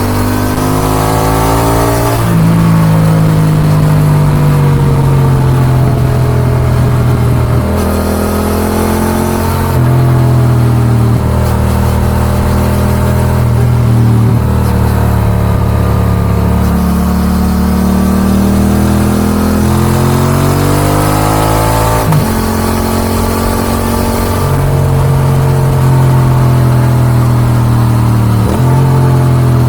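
Yamaha XSR700's CP2 parallel-twin engine through an Akrapovic dual exhaust, riding hard: the engine note climbs under acceleration, breaks sharply at gear changes and sags on roll-off, several times over.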